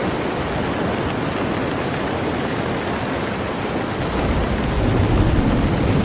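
Heavy rain falling steadily on a boat, a dense even hiss of drops. About four seconds in, a deep rumble swells underneath it.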